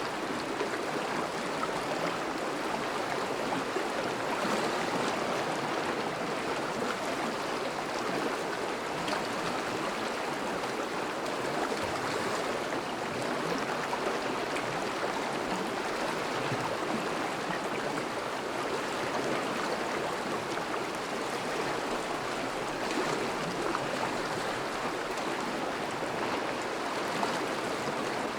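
River water flowing steadily, a continuous even rush and babble of a thawing river's current.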